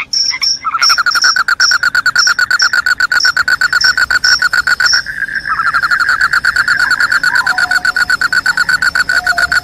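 Calling crickets: a loud, rapid pulsed trill starts under a second in, breaks off briefly about five seconds in and resumes, over a higher chirp repeating several times a second.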